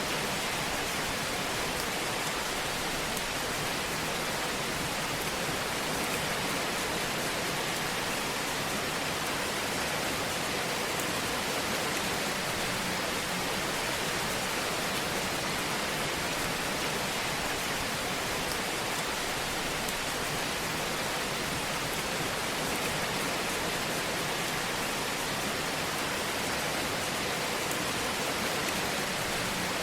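Wood fire burning in a fireplace: a steady hiss with faint scattered crackles.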